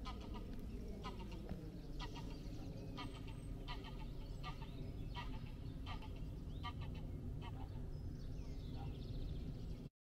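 Birds calling again and again, short calls about one to two a second, over a steady low rumble.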